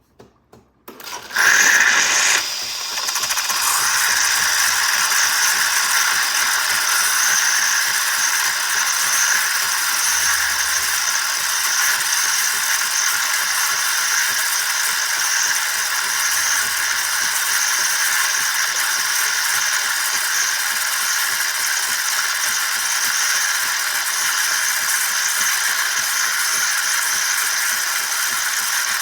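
Philips 3200 LatteGo automatic coffee machine frothing milk for a cappuccino: after a couple of short sputters, a loud, steady hissing and rattling of steam and pump starts about a second and a half in and runs on unchanged.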